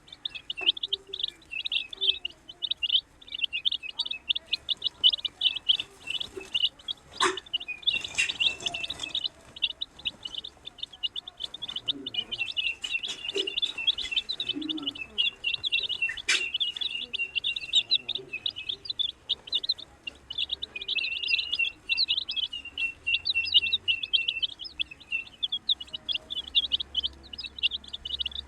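A group of baby chicks peeping without pause, many short high chirps overlapping. A couple of sharp clicks or taps stand out, about seven and sixteen seconds in.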